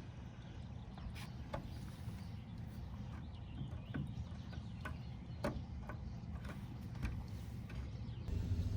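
A few faint, scattered clicks and taps, like small parts being handled, over a steady low rumble that grows louder near the end.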